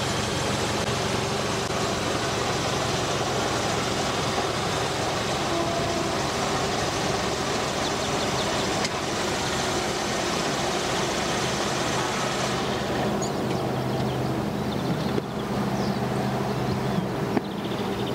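A car engine idling steadily: an even low hum with a hiss over it, and the hiss falls away about two-thirds of the way through.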